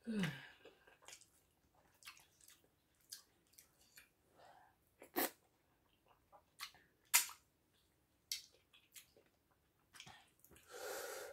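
Close-up mouth sounds of eating fufu and egusi soup by hand: soft wet chewing and lip smacks, scattered and irregular, with two sharper smacks about halfway through.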